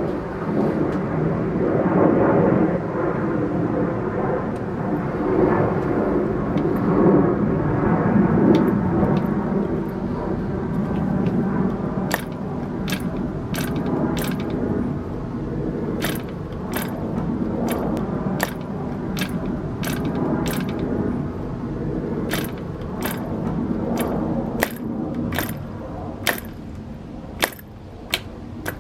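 A steady mechanical running noise, then from about halfway on a long series of sharp, irregular metallic clicks and clinks, small metal parts knocking together.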